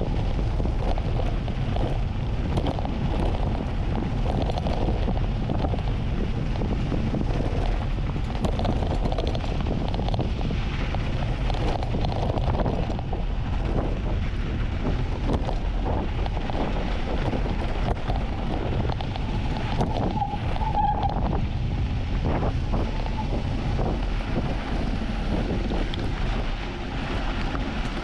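Heavy wind buffeting on an action camera's microphone during a fast downhill mountain bike ride, with the bike rattling over rough ground.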